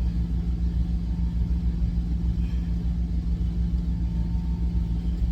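Truck engine idling: a steady low drone with a constant hum.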